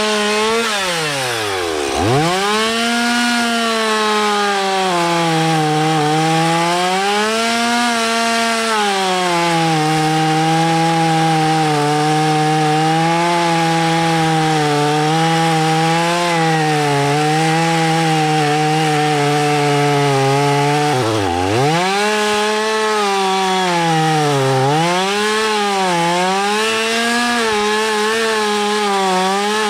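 Two-stroke chainsaw running at high revs while cutting into a tree during a felling cut, its pitch sagging and recovering as the chain bites the wood. About two seconds in and again about twenty-one seconds in, the engine drops sharply toward idle and revs straight back up.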